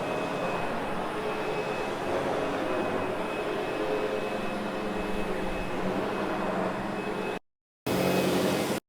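Sebo X8 upright vacuum cleaner running steadily over carpet, a motor hum with a faint high whine. The sound cuts out completely for about half a second around seven and a half seconds in, and again near the end.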